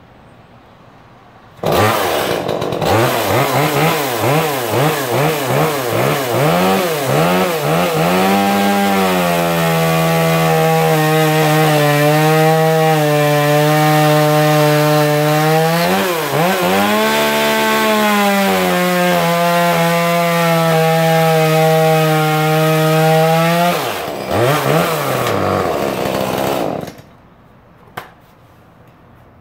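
Modified two-stroke Tanaka chainsaw, ported and tuned, coming in loud about two seconds in and revving in quick blips. It is then held at full throttle, cutting wood, for about fifteen seconds with a brief dip in the middle, which suggests two cuts. Near the end it is blipped a few more times and cuts off suddenly.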